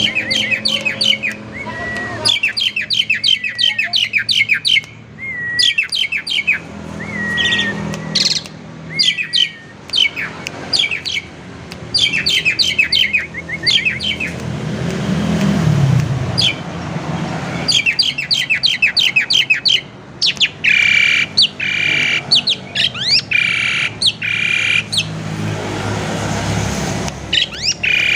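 Jalak suren (pied starling) singing a varied song: fast chattering runs of clicks and chirps with short whistles. Past the middle comes a row of about five long, harsh squawking notes.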